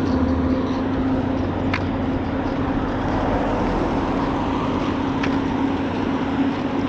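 A motor engine running steadily, with a constant low hum over a broad rushing noise and a few faint ticks.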